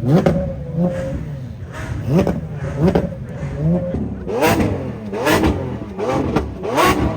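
A car engine revved in repeated quick throttle blips, each one rising sharply in pitch and falling back. The blips come about one a second, and the last four, in the second half, are louder.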